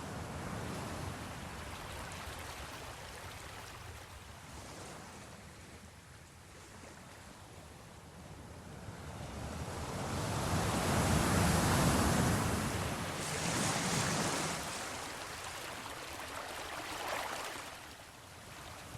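Sea waves washing in slow swells, building to the loudest surge a little past halfway and then easing off.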